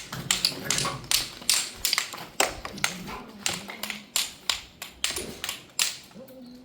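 Irregular sharp taps and knocks of hand tools striking stone, several a second, as natural stone cladding pieces are worked and set on a wall.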